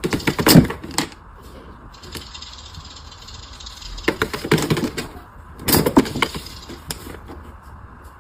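Cat's paws tapping and rattling against a monitor screen in three quick flurries of clicks and knocks, the first the loudest.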